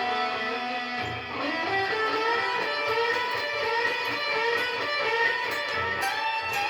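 Electric guitar playing a melodic line of sustained notes, with a step up in pitch to a held note about six seconds in.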